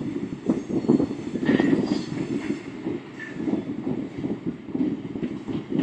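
Freight train rolling slowly across a railroad lift bridge, its wheels and cars clattering and rumbling over the rails with uneven knocks. A couple of brief high squeals come through, about a second and a half in and again near three seconds.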